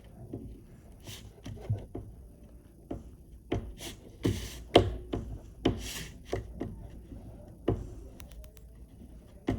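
Oil pastel rubbing and tapping on paper: irregular short scratchy strokes and taps, with a few longer strokes around the middle.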